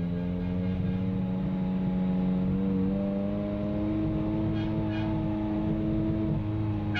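Ferrari F355's V8 engine running steadily at moderate revs in slow convoy driving, heard from inside the cabin. Its pitch creeps up gradually and eases off slightly near the end.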